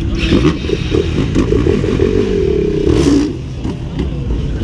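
Dirt bike engine revving up and down, with a longer rev held before it drops off about three seconds in.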